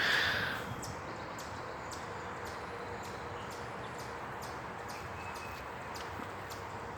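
Steady rush of flowing creek water, with a brief louder sound right at the start and faint ticks about twice a second.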